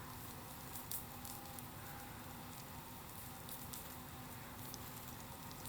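Bonfire crackling softly, with a steady low hiss broken by scattered sharp pops.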